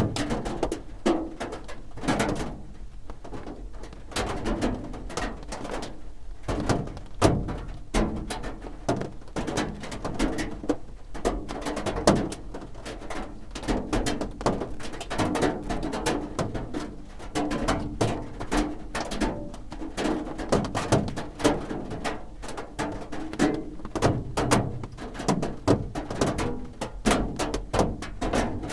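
Raindrops drumming on a roof: a dense, irregular patter of hits, with a louder single drop striking now and then.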